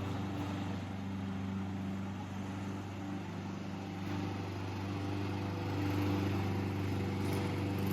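Petrol lawn mower engine running steadily at an even hum, with no change in speed.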